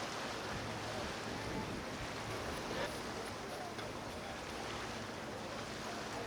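Steady outdoor marina ambience: wind and water noise with a faint low hum and faint distant voices.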